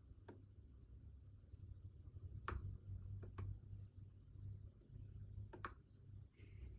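Quiet room with a low steady hum and four sharp, scattered clicks, the loudest about two and a half seconds in, typical of desk work such as a pen, mouse or keyboard.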